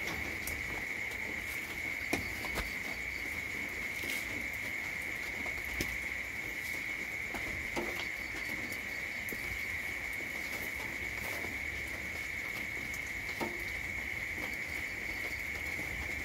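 Crickets trilling on one steady high note, with scattered light ticks and drips of rain.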